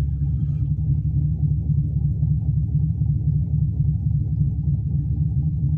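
Cammed, turbocharged 5.3-litre V8 idling cold with a steady, deep, uneven rumble.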